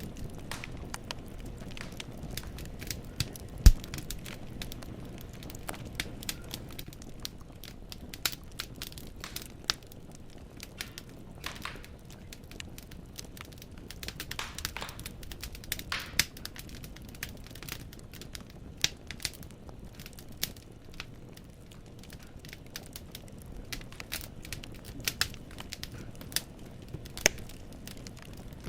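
Firewood burning in a fireplace, crackling with irregular snaps and pops over a low rumble, one loud pop about four seconds in and a few brief hisses midway.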